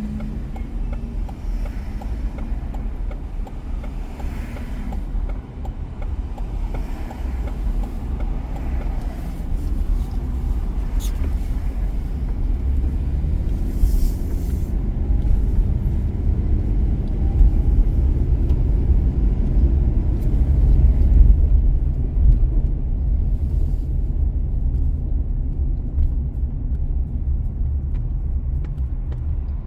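A car driving on city streets: a steady low rumble of engine and tyres, swelling a little about two-thirds of the way through.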